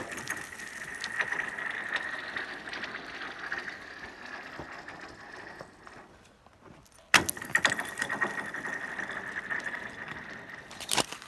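Chunks of ice thrown onto thin ice, about an inch thick: each lands with a sharp crack and then skitters across the sheet. The ice rings with a steady high tone full of small ticks that fades over several seconds. This happens twice, and another chunk hits near the end.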